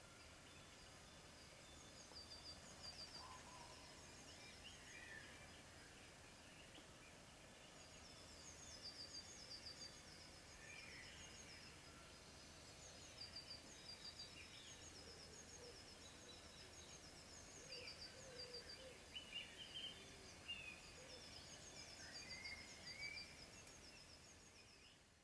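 Faint birdsong from several birds: runs of rapid, high chirping notes every few seconds, mixed with scattered lower whistled calls.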